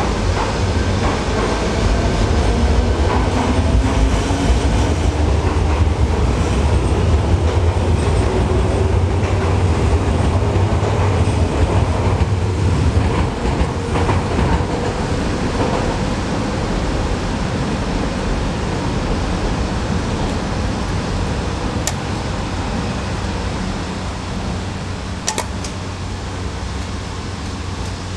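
Electric commuter train running, a heavy low rumble with a motor whine rising in pitch through the first half. The rumble drops away about halfway, leaving a quieter steady noise with a couple of faint clicks near the end.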